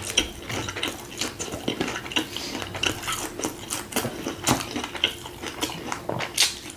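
Irregular clinks and taps of a spoon and other utensils against dishes while food is handled.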